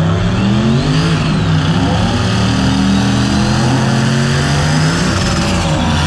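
Full-size pickup truck engines running and revving, their pitch climbing and falling, with a thin high whine rising and falling above them.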